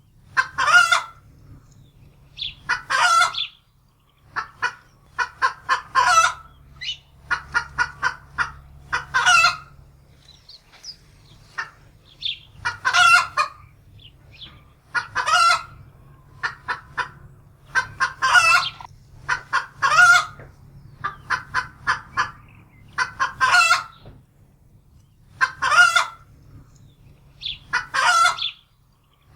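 Domestic hen cackling in alarm: runs of quick short clucks, each ending in a loud drawn-out squawk, over and over every two to three seconds.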